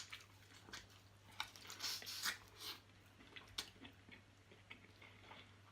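Faint close-miked eating sounds: chewing, with a scatter of short mouth clicks and smacks, over a low steady hum.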